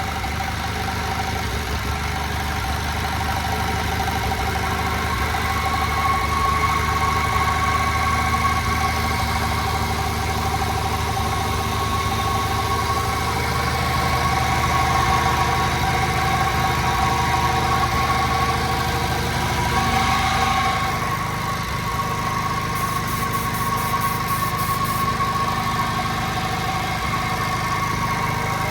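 1956 JAP Model 55 stationary engine running steadily, driving an ex-army 5 kW generator, with a steady whine over the engine's beat. About two-thirds of the way through, the lower part of the sound thins out.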